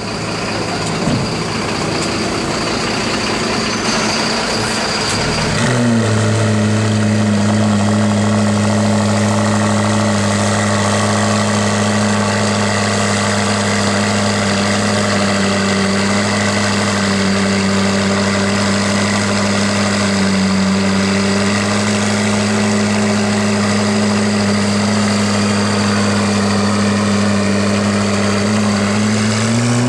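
McLaren P1's twin-turbo V8 starting up about six seconds in, then idling steadily, with a small rise and fall in revs near the end.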